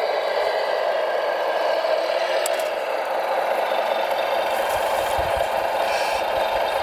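Radio-controlled model heavy truck running: a steady motor-and-gearbox whine with a light rattle, with a few faint low knocks in the second half.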